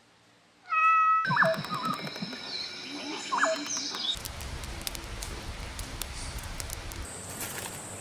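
A few short, mewing animal calls with a falling pitch in the first few seconds, then a steady rough background noise with a high, even whine joining near the end.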